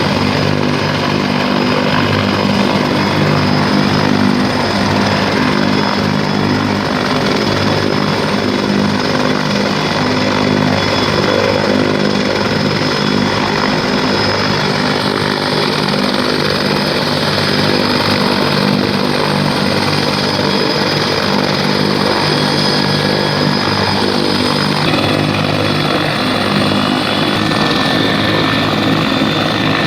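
Helicopter running loud and steady: the even beat of its rotor under a high turbine whine.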